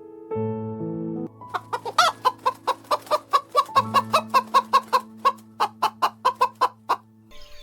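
A chicken clucking in a fast run of short calls, about four a second, over background music of held low notes.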